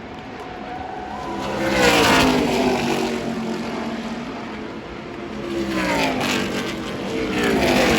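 NASCAR Craftsman Truck Series race trucks' V8 engines passing at speed, each engine note swelling and then dropping in pitch as it goes by: a loud pass about two seconds in, another around six seconds, and a third building near the end.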